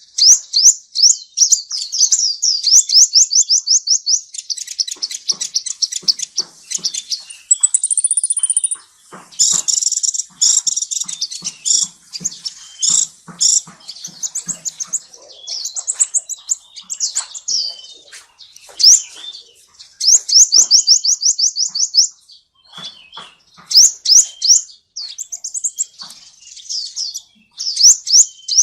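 Gouldian finch song: rapid high trills of quickly repeated sweeping notes, coming in bursts of a few seconds with short pauses between.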